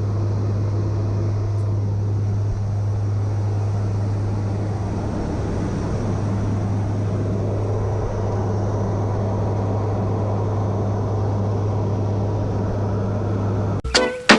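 Steady drone of aircraft engines with a strong constant low hum, cut off suddenly near the end.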